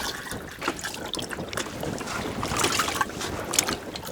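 River water splashing and pouring as it is scooped into a bag, among short knocks of handling, with wind on the microphone.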